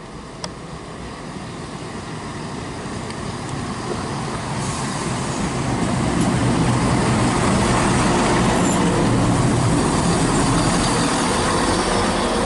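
Class 170 Turbostar diesel multiple unit arriving, its diesel engine and rail noise growing steadily louder over the first six seconds and then holding as it runs in alongside the platform. There is a single sharp click about half a second in.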